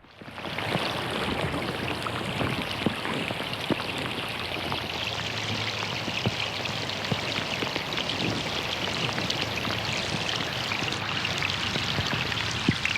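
Rain falling on a pond: a dense, steady patter with many single drops plinking sharply into the water, over running water. It fades in over the first moment.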